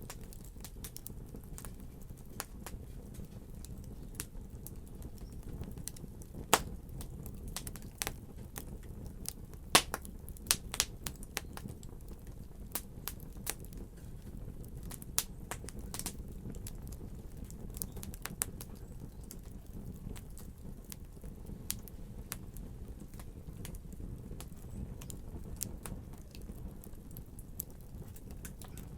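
Wood fire crackling: a steady low rumble with irregular sharp pops and snaps. The loudest pops come about six and a half and ten seconds in, with a quick run of snaps just after.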